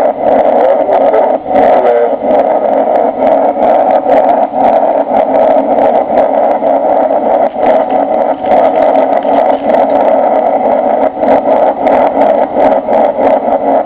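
Cabin noise of a Boeing 747-300 in flight: a loud, steady roar of engines and airflow, with frequent short ticks and rattles throughout.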